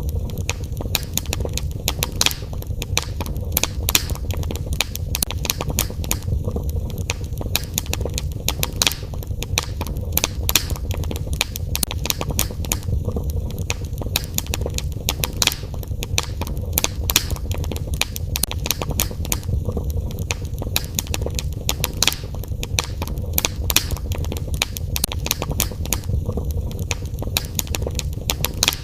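Wood fire in a fireplace crackling and popping: many irregular sharp snaps over a steady low rumble of the flames.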